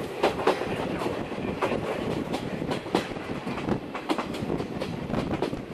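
Steam-hauled passenger train running at speed, heard from inside the coach: a steady rumble with frequent sharp clacks of the wheels over the rail joints.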